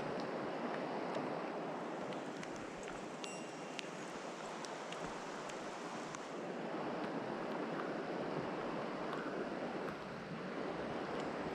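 Steady rush of a mountain stream's flowing water, with a few faint clicks.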